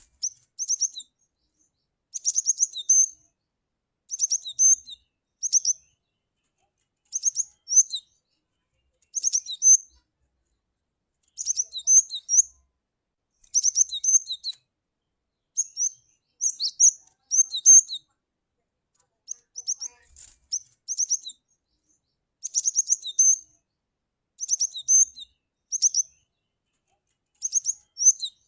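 Cinereous tit (glatik batu) calling: short bursts of high, sharp chirps, one burst about every second or two.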